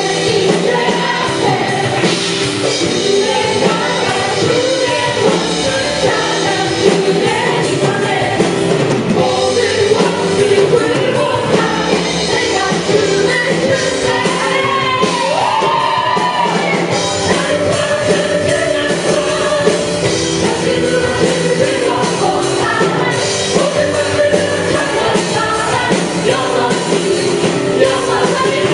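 Live worship band playing an upbeat praise song with drums, while the worship leaders and congregation sing loudly together.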